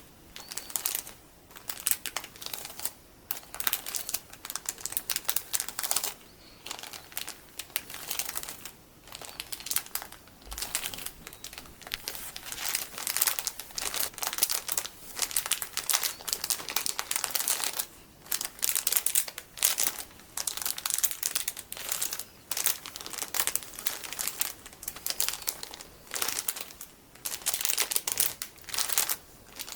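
Plastic packaging full of golden sticky beads being crinkled and squeezed: dense crackling in spurts of one to three seconds with short pauses between them.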